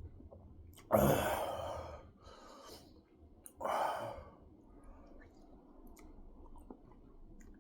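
A man sighing heavily twice: a long breathy exhale about a second in, then a shorter one a couple of seconds later.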